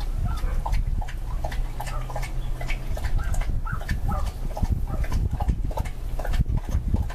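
Birds chirping, short calls several times a second, over a steady low rumble.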